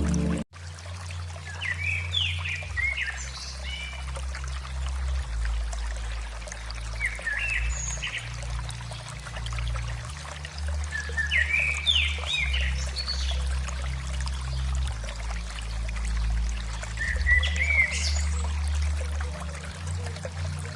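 Birds chirping in short bursts every few seconds over a steady trickling, watery noise and a low steady hum.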